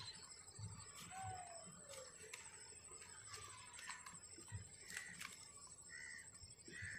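Faint bird calls, short and repeated, coming more often in the second half, with a few light clicks and rustles as a cloth bag is handled and untied.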